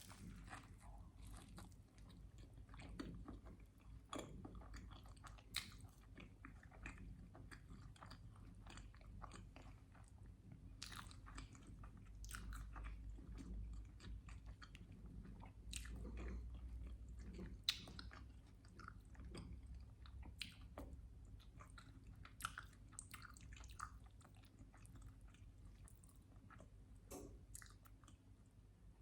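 Close-miked mouth sounds of someone eating a syrup-covered sandwich: chewing and biting, with many irregular sharp clicks and crunches. The sharpest click comes a little past halfway.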